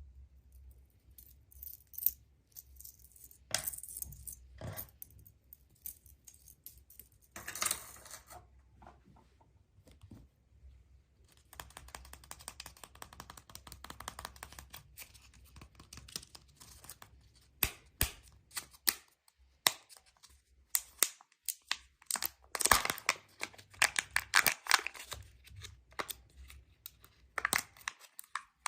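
Surprise-egg packaging being handled and opened: crinkling and tearing of wrapping, with sharp clicks and rattles of small plastic parts in irregular bursts. The sounds are busiest and loudest in the second half.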